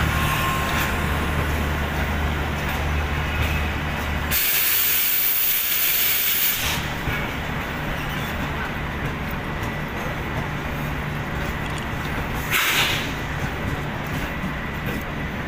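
Passenger train coaches rolling past on the rails as the train comes into the station, with a steady rumble of wheels on track. About four seconds in, a loud hiss lasts for about two seconds. A shorter, sharp burst comes about twelve seconds in.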